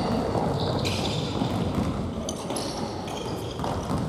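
Indoor futsal play in a gymnasium: a steady wash of court noise with short high squeaks of shoes on the floor and occasional knocks of the ball, echoing in the hall.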